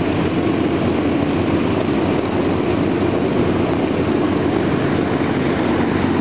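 Yak-50 aerobatic planes' nine-cylinder radial engines and propellers running steadily in flight, a continuous drone with no break.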